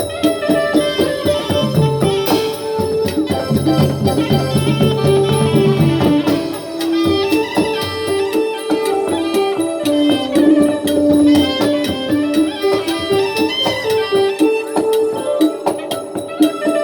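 Manora (nora) traditional southern Thai ensemble music: a melody that steps up and down over fast, dense clicking percussion, with a low held tone under the first six seconds.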